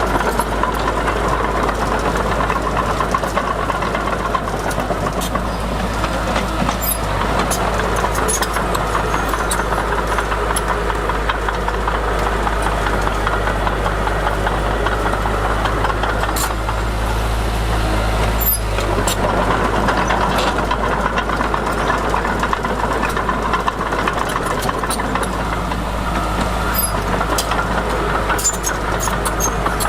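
Diesel engine of heavy earthmoving machinery running steadily, with scattered clicks and clanks over it.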